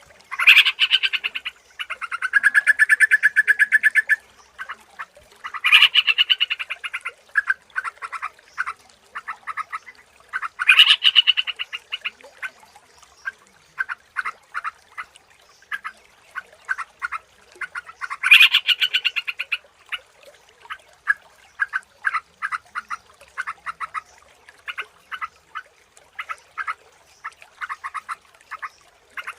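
Yellow-vented bulbul (trucukan) singing: loud, bubbly phrases every few seconds, one followed by a buzzy run, with long series of quick chattering notes between them.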